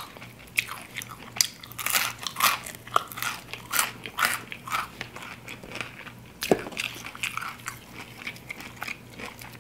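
A person biting, crunching and chewing crispy fried chicken wings: irregular crackly crunches, a few louder bites scattered among them.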